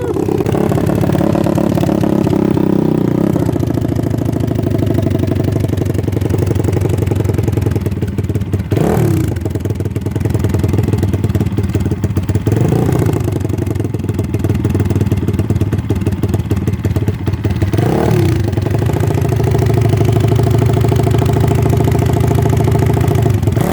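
Motorcycle engine running while riding; its revs drop and climb back three times.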